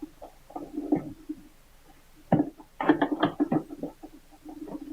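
Pliers clicking and knocking against a battery terminal bolt and nut as the cable connection is tightened. The knocks come irregularly, with a denser run of clicks from about halfway through.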